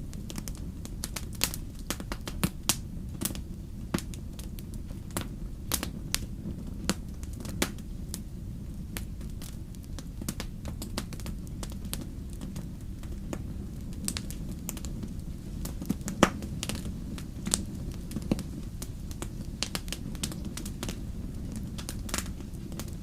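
Wood campfire crackling, with many irregular sharp pops, the loudest about sixteen seconds in, over a steady low wash of sea waves.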